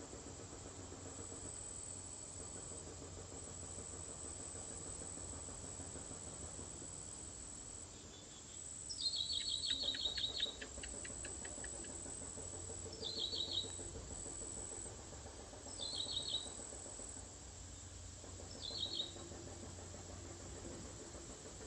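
A bird giving short, high, rapid chattering calls, each opening with a quick downward slide: a longer run just before the middle, then three brief calls a few seconds apart. A steady high insect drone runs beneath.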